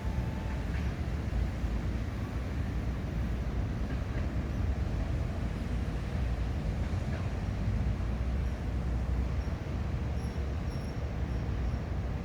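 Steady low outdoor rumble, with a run of faint, short, high-pitched bird chirps in the last few seconds.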